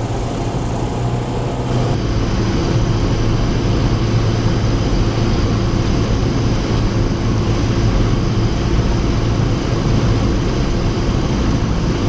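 Cessna 172's piston engine and propeller droning steadily in the cockpit on short final, a low, even hum with no change in power.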